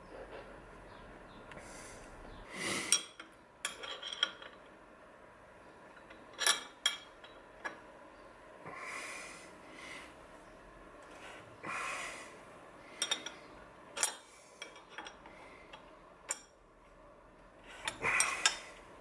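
Hand work at a metal lathe that is not running: a dozen or so scattered sharp metallic clicks and clinks as steel parts and tools are handled, with a few short soft rushing or breathy sounds in between.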